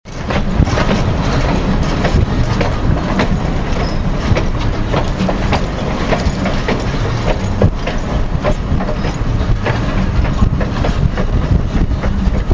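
Railroad passenger cars rolling along the track: a steady rumble with many irregular clicks and clacks of steel wheels on the rails.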